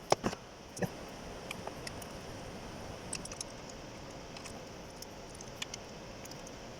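Scattered light metallic clicks and clinks of hand tools and bolts being handled during engine reassembly, with a few sharper knocks in the first second, over a steady background hiss.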